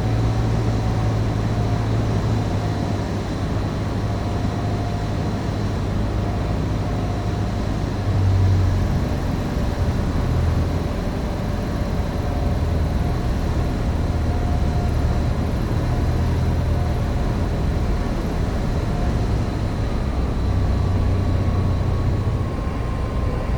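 Cessna 150's Continental O-200 four-cylinder engine running at low approach power through the final approach and landing, a steady drone that swells and dips, with a faint whine that falls slowly in pitch near the end.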